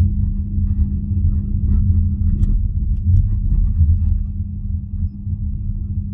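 BYD Atto 3 electric car at low speed: a steady low hum over road rumble, the strange humming that sits on top of the pedestrian safety sound between 20 and 32 km/h.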